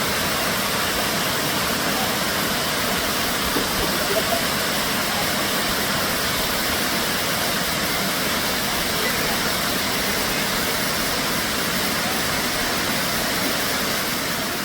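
Kuang Si waterfall: water falling and rushing in a steady, even hiss of noise, fading out near the end.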